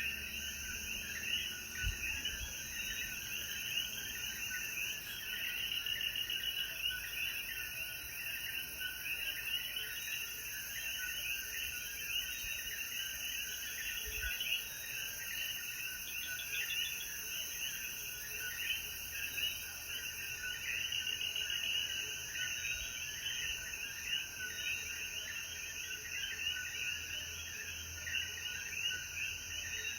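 Chorus of many common coquí frogs calling at once, a dense mass of overlapping short rising chirps, with a steady high insect drone beneath.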